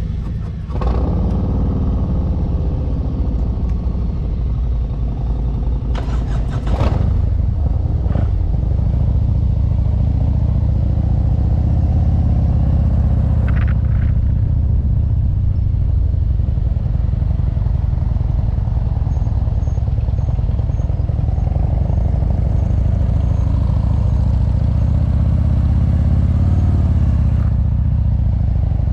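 Motorcycle engine running steadily at low revs, its pitch rising and falling a little as the throttle changes. There is a brief burst of noise about six seconds in.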